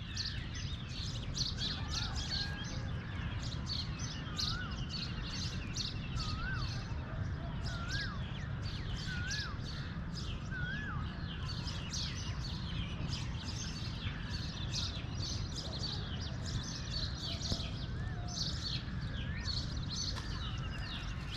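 Songbirds singing: a steady stream of short, high chirps throughout, and from about two seconds in to about eleven seconds one bird repeating a short rising-and-falling whistle roughly every second and a half. Underneath runs a low, steady background noise.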